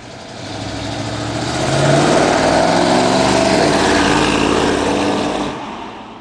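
1979 Dodge Power Wagon truck's engine revving: it swells up over the first two seconds, holds strong, then its pitch drops and it fades out near the end.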